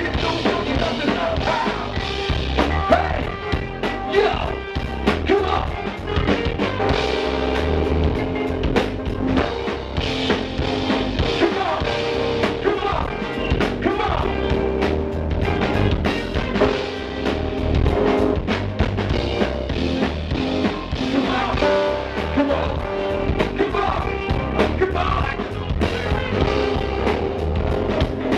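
Live band playing a song: drum kit keeping a steady beat under bass, guitar and held pitched tones, with some singing.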